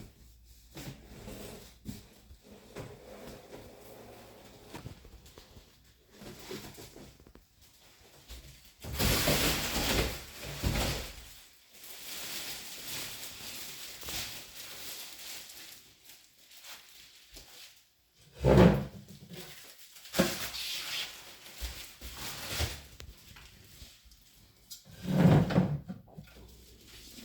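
Handling noises from unpacking a large flat-screen TV: scraping and rustling with scattered clicks, and two heavier thumps, one about two-thirds of the way in and one near the end.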